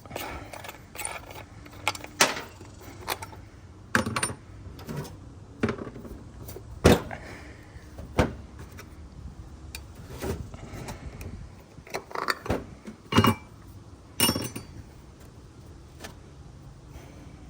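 A rock tumbler barrel being handled and opened: irregular knocks, clicks and clatter, with a few sharper knocks.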